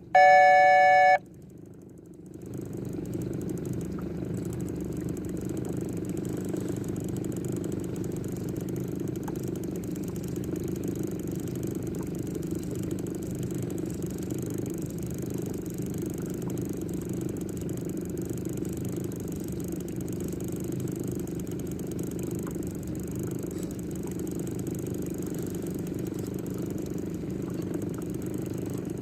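An electronic beep sounds for about a second, then a boat engine starts about two seconds in and runs steadily.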